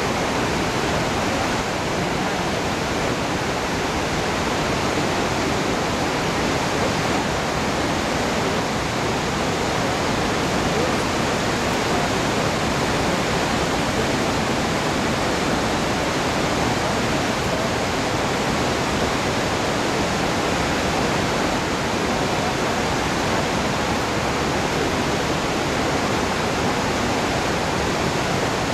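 Steady roar of rushing water from a large waterfall, the Rhine Falls, loud and unchanging throughout.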